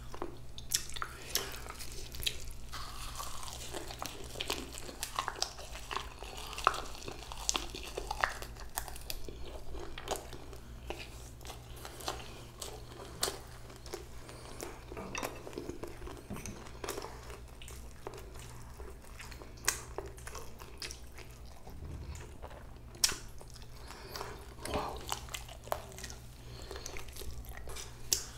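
Close-miked chewing and biting of a bossam (boiled pork wrap) meal: irregular crunches and wet mouth clicks with no set rhythm, over a steady low hum.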